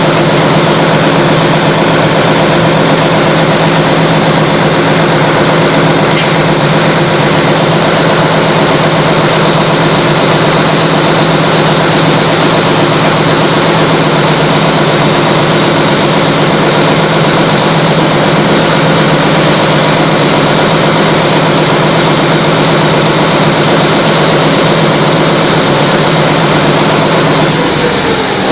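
An engine running steadily at a constant speed, with a slight drop in pitch just before the end.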